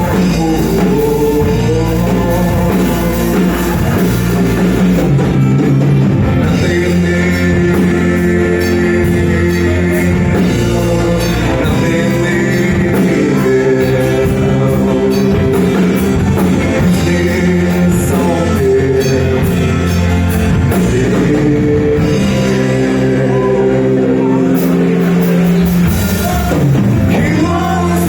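Live rock band playing loudly, with a singer over electric guitar, bass and drums.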